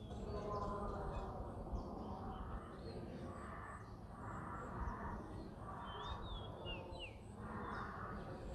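Small birds chirping a few short, quick notes, most clearly about six to seven seconds in, over a steady low rumble of outdoor background noise.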